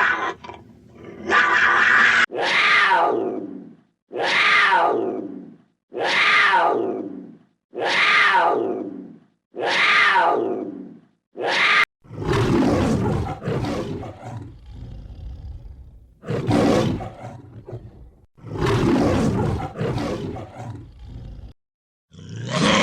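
Big cat roaring: six near-identical roars about two seconds apart, each sliding down in pitch, then a run of rougher, noisier roars.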